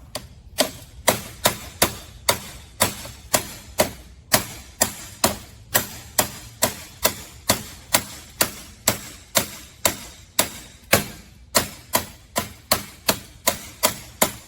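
Steady hammer blows, about two a second, driving a keyed part along the trike's axle.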